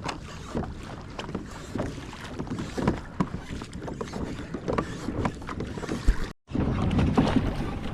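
Water splashing and lapping around a kayak, with irregular small splashes and wind noise on the microphone. The sound cuts out completely for a moment about six seconds in, then resumes somewhat louder.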